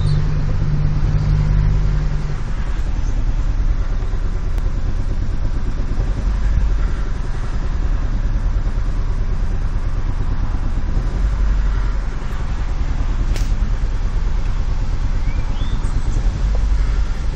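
2012 Chevy Malibu engine running with a rough, uneven idle: a low rumble that wavers, with a steadier low hum in the first couple of seconds. The uploader blames the roughness on a bad throttle body.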